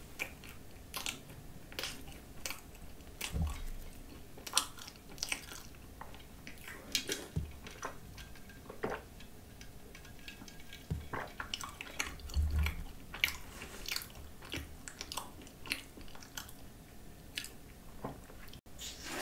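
Close-miked chewing of a cream-filled croissant with a sugary coconut spread: wet mouth clicks and smacks throughout. A little past the middle come a few low gulps as milk is swallowed.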